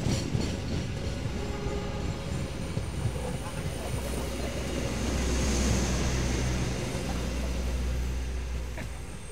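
Passenger train coaches rolling slowly past close by: steady rumble of wheels on rail with a thin high whine, growing louder toward the middle and falling away near the end as the last coach goes by.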